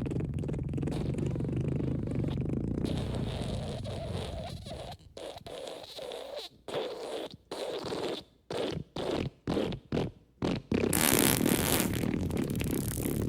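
Fart sound effects: a long, low drawn-out fart, then a quick string of a dozen or so short ones, then a loud, noisy, sputtering one near the end.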